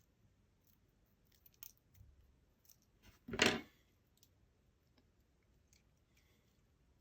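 Small clicks and taps from handling the opened iPod nano's parts with a tool, with one louder scraping sound lasting about half a second, about three seconds in.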